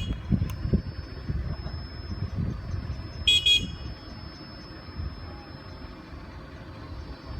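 Road traffic rumbling past, with one short, high-pitched toot about three seconds in.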